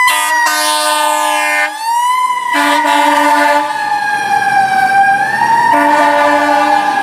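Fire truck siren wailing, its pitch slowly sinking, rising and sinking again. A lower horn tone sounds three times over it.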